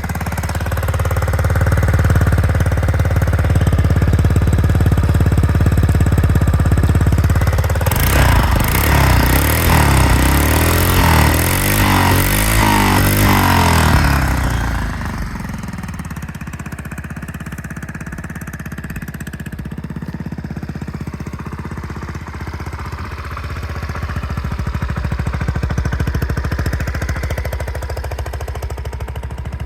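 Yamaha Majesty 250C scooter's single-cylinder four-stroke engine idling, then revved up and down a few times for several seconds before settling back to idle.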